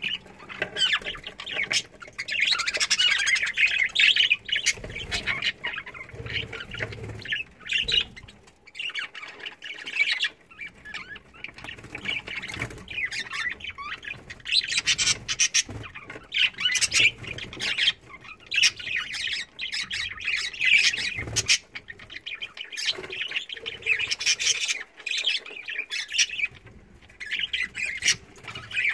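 A flock of budgerigars chattering and squawking almost without pause, with brief lulls about nine seconds in and near the end.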